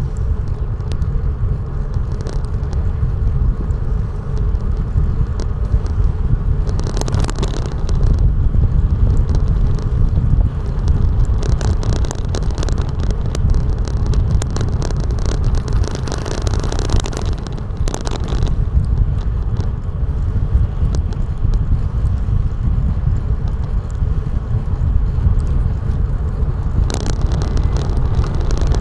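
Steady low rumble of wind buffeting the microphone of a camera mounted on a moving ride. Three brief rushing hisses rise and fade along the way.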